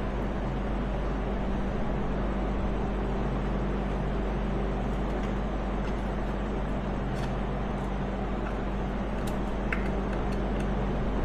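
Steady mechanical hum and hiss, with a few faint clicks and taps over it.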